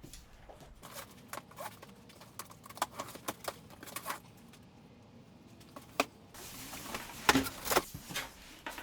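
Rummaging through the contents of a table saw's shipping box: scattered clicks and taps, then rustling and scraping of packaging with a few sharp knocks for the last couple of seconds.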